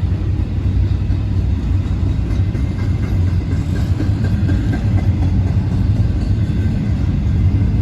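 Freight train cars, including double-stack container cars, rolling past at speed: a steady low rumble of steel wheels on the rails.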